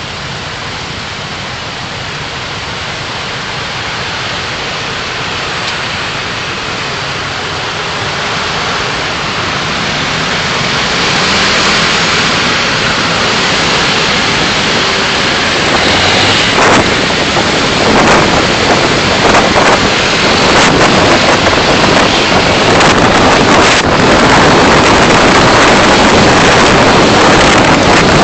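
Noise of a car driving, heard through its dashcam: an even rush of road and wind noise that grows steadily louder, with a few short knocks in the second half.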